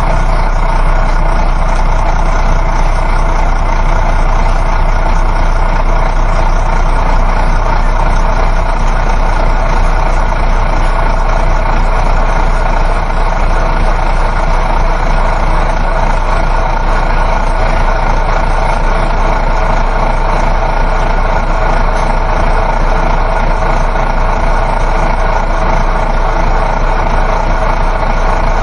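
Steady drone of a coach bus's engine and road noise, heard from inside the passenger cabin while it drives.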